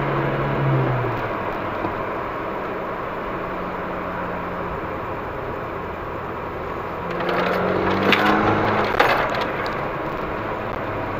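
VW Golf V GTI's turbocharged 2.0-litre four-cylinder engine and road noise heard inside the cabin as the car drives along a race track. About seven seconds in the engine note rises as the car accelerates, then drops lower, with a few sharp cracks around eight to nine seconds.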